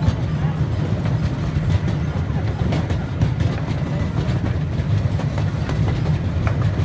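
Miniature park train riding along its track, heard from on board an open passenger car: a steady low rumble of wheels on the rails.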